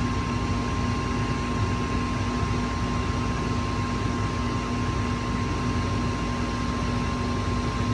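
Gas furnace's draft inducer fan motor running with a steady hum and hiss, a constant low tone and a higher whine, during the ignition sequence while the hot surface igniter heats up before the gas lights.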